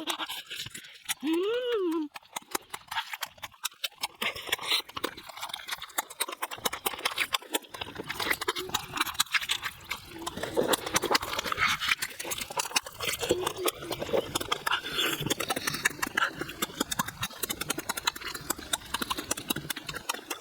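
Close-up eating sounds: wet chewing and lip-smacking with rapid clicks and crackles, as chicken is eaten. A short rising-and-falling hum of pleasure comes about two seconds in.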